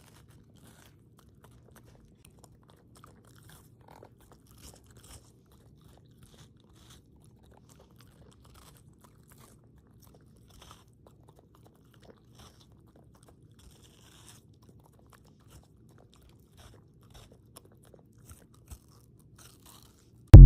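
Soft, wet chewing and crunching of watermelon, with small crisp bites scattered throughout at low level. At the very end a loud pitched tone cuts in suddenly.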